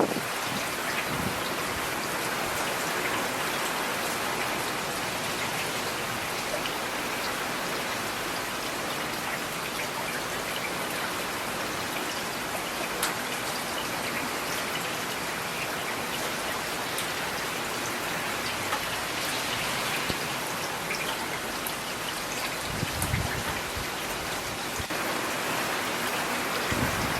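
Steady rain falling, a dense hiss of raindrops with scattered individual drop ticks. A brief low rumble comes in near the end.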